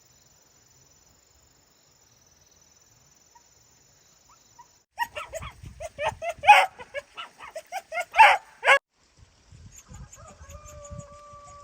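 Puppies yelping and barking in a rapid run of short, high calls for about four seconds, starting about halfway in, after faint steady insect chirring.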